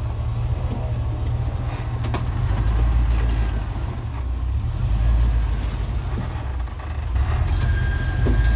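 Off-road truck engine running at low revs with a deep, steady rumble while crawling a rocky trail, with a short click about two seconds in and a thin high squeal starting near the end.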